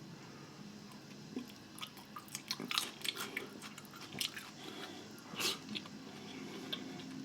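Close-miked chewing and biting of food, a string of irregular soft crunches and wet mouth clicks, one louder crunch about five and a half seconds in.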